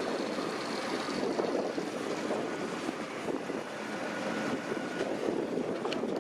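Deutz-Fahr 6150.4 tractor and potato harvester running steadily while at work in the field.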